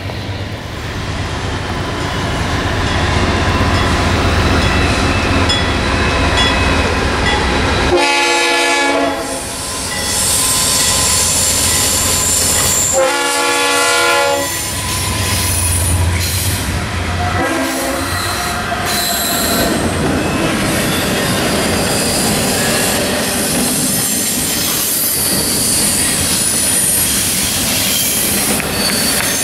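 Freight train passing close by: diesel locomotives and rolling cars make a loud, steady rumble. The locomotive's multi-chime air horn sounds two long blasts, about eight and thirteen seconds in, then a shorter, weaker one a few seconds later.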